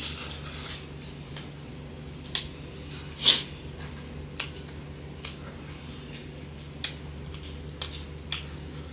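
Close-up eating sounds: chewing smoked pork with sporadic short wet lip smacks and mouth clicks, and fingers tapping on a wooden board picking up crumbs, over a steady low hum.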